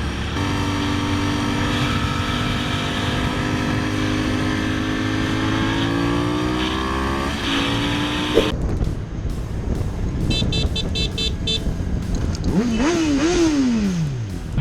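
A vehicle engine accelerating hard, its pitch climbing steadily for several seconds with a brief drop as it shifts up a gear. After an abrupt cut, an engine is revved up and down in a few quick blips near the end.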